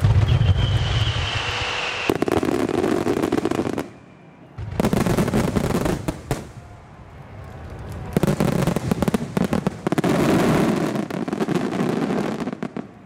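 Finale barrage of aerial fireworks: rapid launches and shell bursts with dense crackling, with a whistle falling slightly in pitch during the first couple of seconds. It comes in three waves, with short breaks about four seconds in and again around seven seconds.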